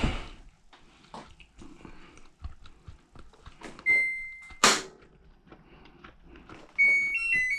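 Samsung front-load washer control panel: small clicks of buttons being pressed, a single electronic beep about four seconds in, then at once a sharp knock. Near the end comes a short jingle of stepped electronic tones.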